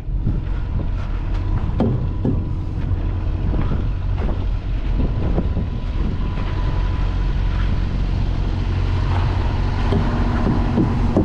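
Truck's diesel engine idling steadily, with wind on the microphone and scattered knocks and clicks in the first half.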